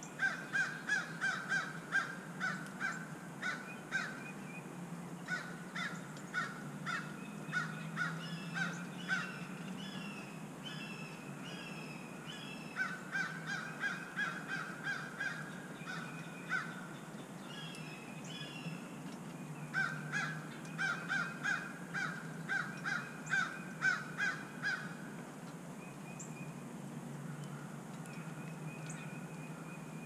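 Harsh bird calls repeated about three times a second in four bouts of several seconds each, over a steady low hum.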